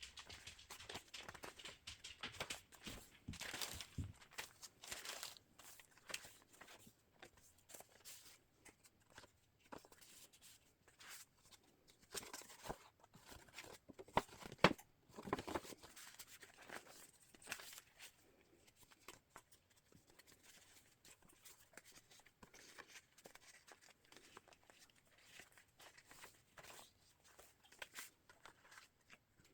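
Paper pages of a hand-bound journal being turned and handled: faint, irregular rustling and crinkling with soft taps, and a louder rustle about halfway through.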